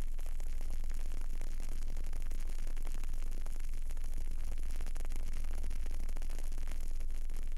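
Candle burning with frequent small crackles and ticks over a steady hiss and a low hum.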